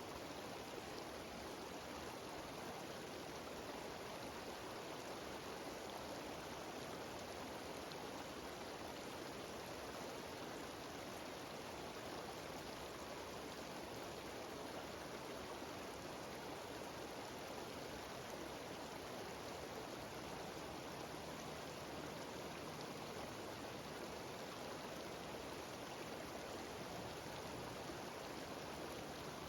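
A cascading mountain waterfall rushing steadily, a constant even wash of falling water.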